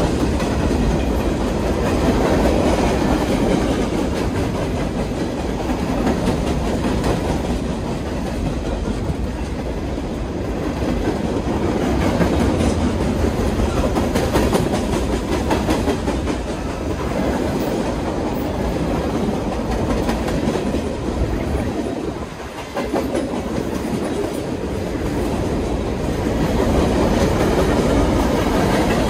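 Freight train of boxcars rolling past on the adjacent track: a steady rumble of steel wheels on rail with clickety-clack over the rail joints, dipping briefly about three-quarters of the way through.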